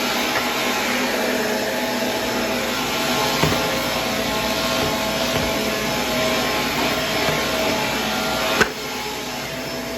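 Upright vacuum cleaner running steadily, its motor hum carrying faint crackles of debris being picked up. A sharp click comes near the end, after which the vacuum runs a little quieter.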